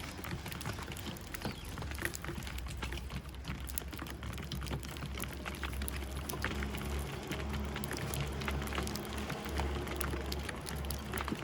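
Irregular patter of many small, sharp taps and ticks over a low, steady rumble.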